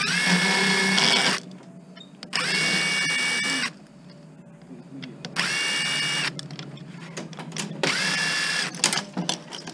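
Power drill with a driver bit run in four short bursts, backing out screws. Each burst spins up with a quickly rising whine that holds a steady pitch for about a second before stopping, with small clicks of handling in between.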